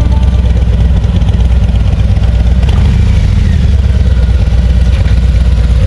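Motorcycle engine idling loudly close by, a steady low pulsing run.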